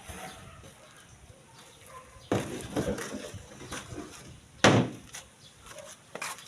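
A clattering knock, then about two seconds later a single louder bang, with a few faint ticks between; typical of work at a building site, the source not shown.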